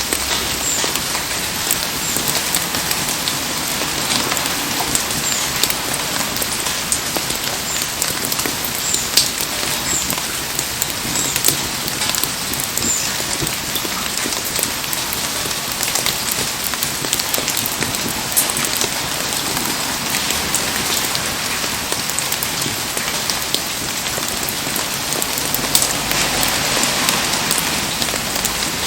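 Heavy rain falling steadily, a dense hiss with many sharp drop hits scattered through it.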